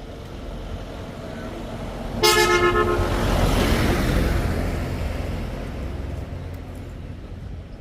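A vehicle horn gives one short toot about two seconds in, followed by the noise of a vehicle passing by that swells and then slowly fades.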